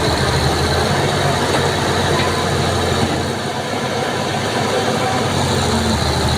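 Heavy vehicle engine running steadily, with a low, even engine note under dense mechanical noise.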